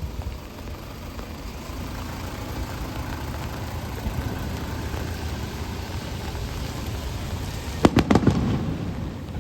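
Fireworks show: a steady rumble of shells bursting, then a quick cluster of several sharp crackling bangs about eight seconds in, the loudest part.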